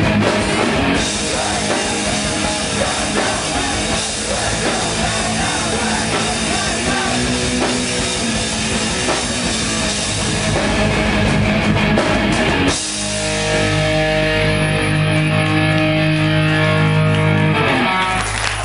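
Hardcore band playing live with heavily distorted electric guitars and drum kit. About two-thirds of the way through, the fast playing gives way to one long held chord, which cuts off near the end.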